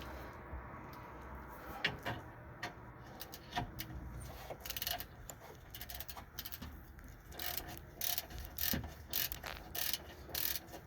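Hand ratchet wrench clicking as bolts on a pickup's sway bar are run down. The clicks are scattered at first and come in quick runs over the last few seconds.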